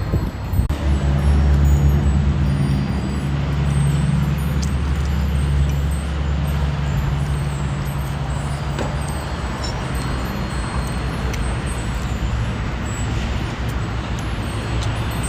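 A motor vehicle engine running steadily with a low hum, amid road traffic noise. The hum sets in just under a second in and fades somewhat after about nine seconds.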